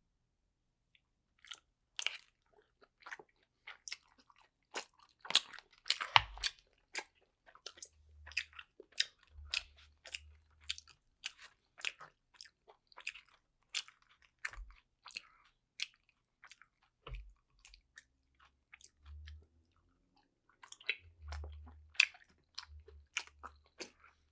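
Close-miked chewing of dumplings: a long run of short, irregular wet mouth clicks and bites, thinning out for a few seconds past the middle.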